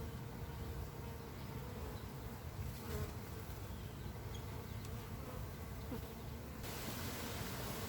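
Russian honeybees buzzing steadily as a crowd around their hive, with a rise in background hiss near the end.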